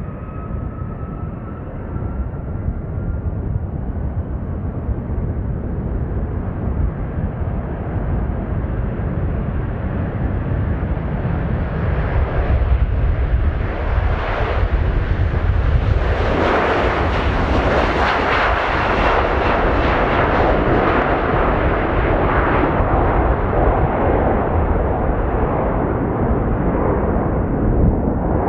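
Airbus A330-300 jet engines at high power on a takeoff roll, a faint rising whine at first, the roar growing louder as the airliner nears and passes closest about two-thirds of the way through, then easing a little.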